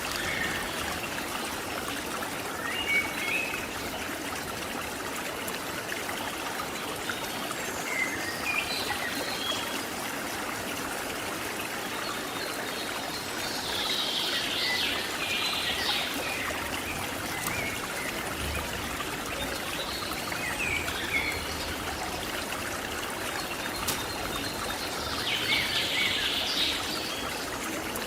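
Cililin bird calling over the steady rush of a stream: scattered short high chirps, with two fuller bursts of song about halfway through and near the end.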